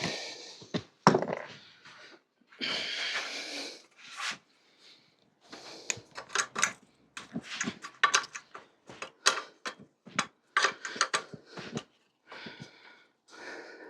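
Metal bicycle parts and tools clinking and knocking as the bike is taken apart, with a brief scraping noise about three seconds in and a quick run of sharp clicks through the middle.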